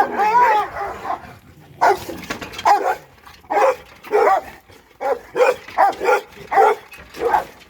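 Dogs barking repeatedly at a passer-by, about a dozen short barks at irregular spacing, with one longer, wavering bark at the start.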